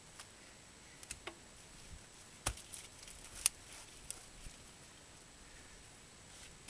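A few light, separate wooden knocks and clatters between axe swings, the loudest about three and a half seconds in. These are pieces of firewood and the axe being handled rather than a full chopping stroke.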